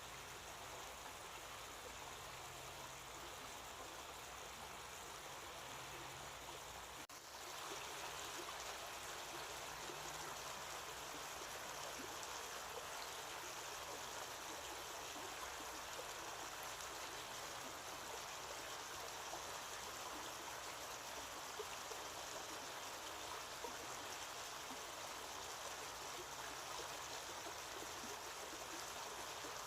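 Faint, steady rush of running water. It cuts off briefly about seven seconds in and comes back slightly louder and brighter.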